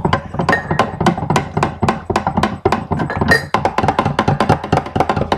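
Metal spoon clinking rapidly against the inside of a glass while stirring chocolate syrup into milk, about six clinks a second.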